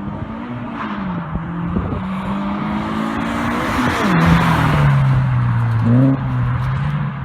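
Subaru BRZ's flat-four engine through an aftermarket JDM exhaust, running loud with its pitch shifting, dropping about four seconds in and briefly rising again near six seconds.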